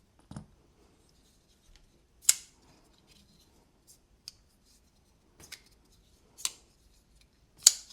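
Giant Mouse Ace Jutland folding knife being opened and closed: a few sharp metallic clicks and snaps from the blade and pivot, the loudest about two seconds in and near the end.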